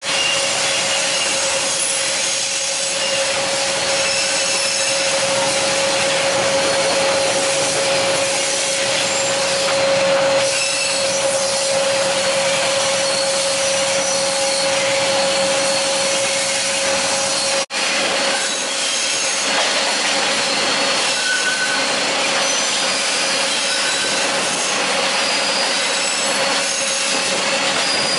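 Metre-gauge passenger train running on the rails, a steady grinding rush of wheels on track heard through the open carriage window, with a thin steady squeal held through most of it. The sound drops out for a moment about two-thirds of the way through, then carries on.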